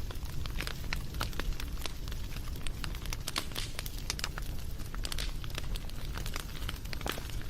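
Wood fire crackling and popping: many irregular sharp snaps over a steady low rumble of burning.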